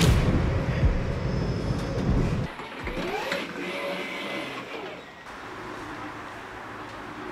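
Low rumble of a train at a station, dropping off abruptly about two and a half seconds in and leaving quieter background noise.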